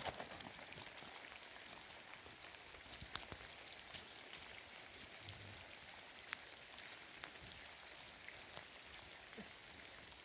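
Rain falling steadily, a soft hiss with scattered sharp ticks of individual drops striking nearby surfaces.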